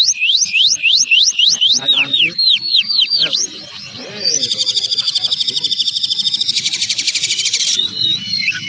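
Recorded songbird song of fast, harsh 'tembakan' phrases, the kind played to tutor competition birds. It opens with rapid sweeping whistles at about four a second, turns to a run of quick falling notes, and after a short pause breaks into a fast dry buzzing trill that stops near the end.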